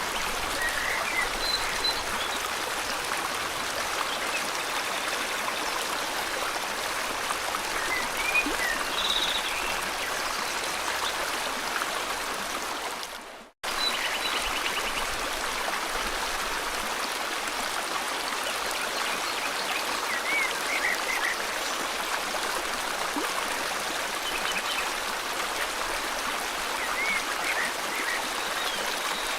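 River water flowing steadily, with short bird chirps and trills heard over it now and then. About halfway the whole sound fades away to silence for a moment, then cuts straight back in.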